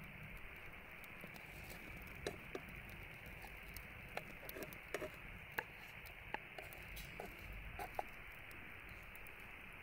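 Scattered, irregular light clicks and small pops over a steady low hiss.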